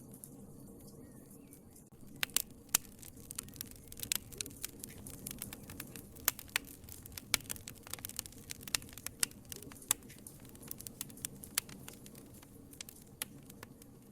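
Wood fire crackling in a fireplace: sharp snaps and pops over a low steady rumble of the flames. The pops start about two seconds in, come thickly through the middle and thin out near the end.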